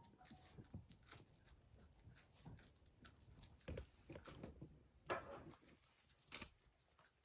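Faint, scattered taps and clicks of a small dog's claws and movements on the floor, with a sharper click about five seconds in.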